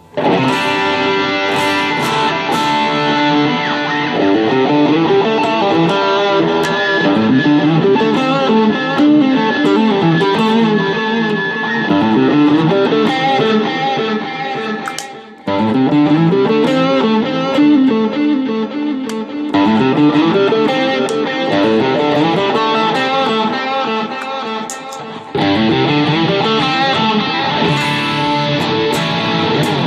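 Electric guitar played through a Joyo American Sound amp-simulator pedal and a Boss CS-2 compressor, mixing single-note lines and strummed chords. The playing starts abruptly, stops briefly near the middle, and the tone changes about two-thirds of the way through and again near the end.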